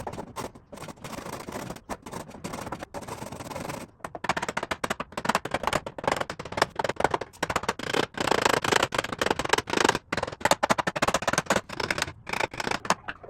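Wood being worked with rapid, repeated scraping strokes, broken by several abrupt breaks and growing louder about four seconds in.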